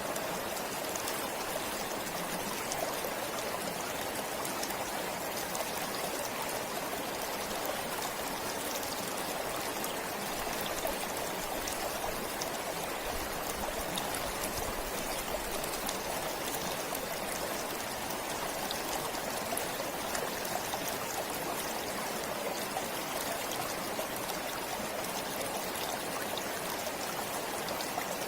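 Forest stream flowing steadily, an even rush of water with small splashes and trickles.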